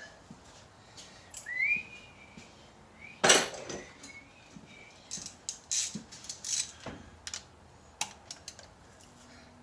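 Metal tools and parts clinking and knocking, with one loud clank about three seconds in and a short whistle-like squeak shortly before it.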